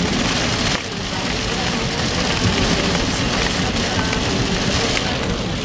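Heavy rain pelting a moving car, a loud steady noise heard from inside the car.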